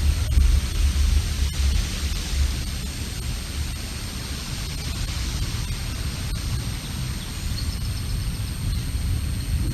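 Wind buffeting an outdoor camera microphone: a gusty low rumble, strongest in the first couple of seconds, over a steady hiss. A few faint, high bird chirps come near the end.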